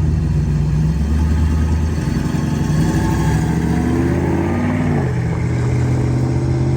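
A car engine running with a deep, steady exhaust note. Its pitch climbs for a couple of seconds and drops back about five seconds in, as when a car accelerates and shifts up.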